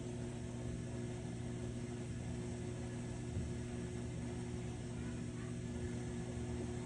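A steady low hum made of a few even tones, unchanging throughout.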